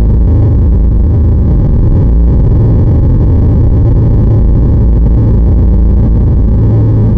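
Very loud, steady low rumbling noise with no clear pitch or rhythm, holding level without a break.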